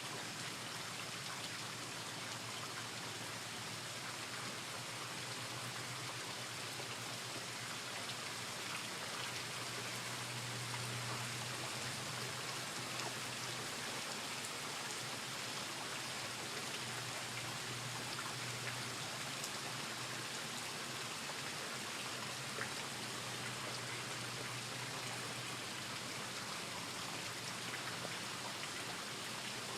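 Steady rain falling, an even hiss with scattered drop ticks, under a faint low hum.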